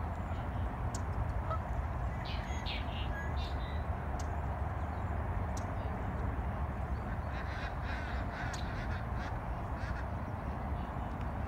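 Birds giving harsh, caw-like calls in two short bouts, about two and a half seconds in and again around eight seconds in, over a steady low background rumble.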